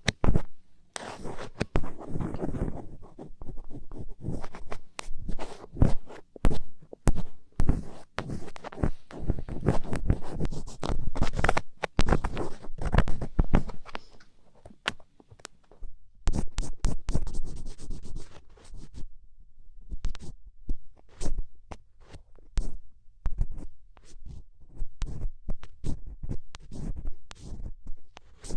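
Close-miked ASMR scratching: rapid, irregular scratching strokes on the microphone, in dense runs broken by short quieter gaps.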